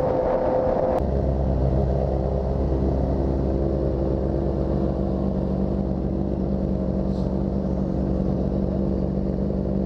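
Motorcycle engine running at a steady pitch. About a second in there is a sudden change to a lower, very steady engine note.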